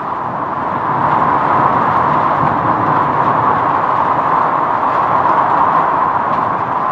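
Strong whirlwind gusts rushing steadily, a dense, loud noise of wind.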